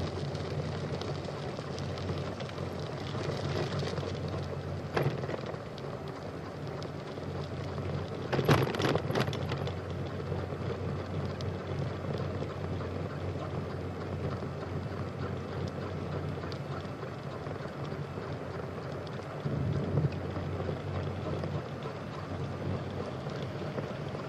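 Steady running noise of a bicycle ride recorded on the rider's phone, with a low steady hum under it. A loud jolt or rattle comes about eight and a half seconds in, with smaller knocks around five and twenty seconds.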